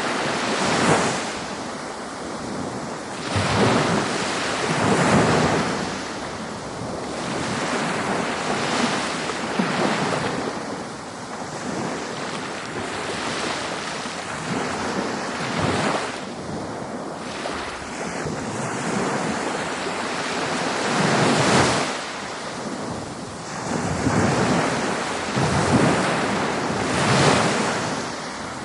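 Ocean waves breaking on a beach, a continuous surf wash that swells and recedes every few seconds.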